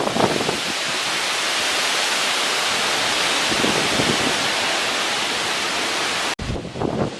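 Tropical storm wind and rain making a loud, steady rushing hiss. It breaks off abruptly about six seconds in and gives way to gusty wind buffeting the microphone.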